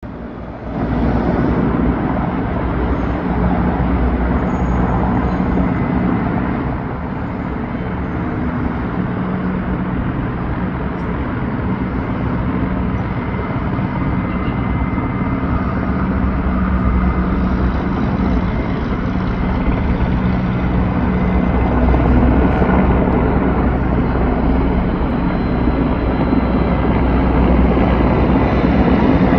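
Helicopter flying overhead, a steady loud rotor and engine drone that grows gradually louder in the second half.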